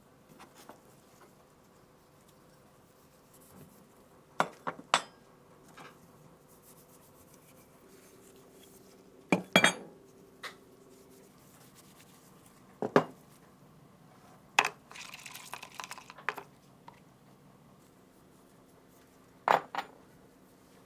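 Metal parts of an MG3 machine gun clinking and knocking as they are handled and set down during a rebuild: about six separate groups of sharp clinks, with a brief rattle a little past the middle.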